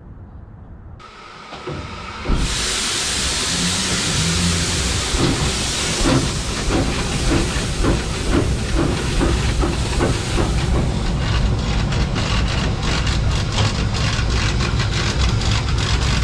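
The 1861 Robert Stephenson steam locomotive Caroline blowing off a loud hiss of steam that starts suddenly about two seconds in, then working off with a regular chuffing exhaust that quickens from about ten seconds in.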